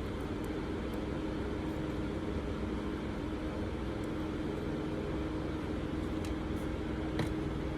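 Steady low mechanical hum with an even tone, with a few faint light clicks, the clearest about seven seconds in.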